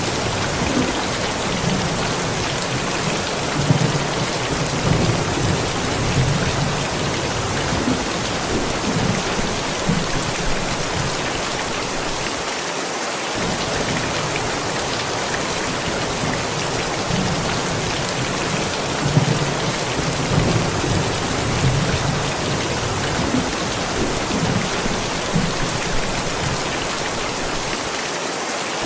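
Steady heavy rain falling, with low thunder rumbling and swelling on and off beneath it.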